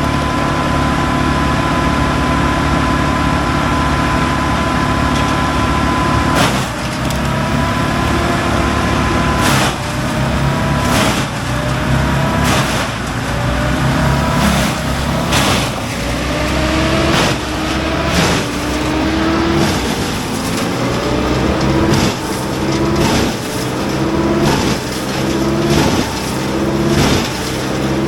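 Wood chipper running steadily, then from about six seconds in chewing through wood: a run of sharp cracks, each followed by the engine's pitch dropping under load and rising again as it recovers, about once every second or so.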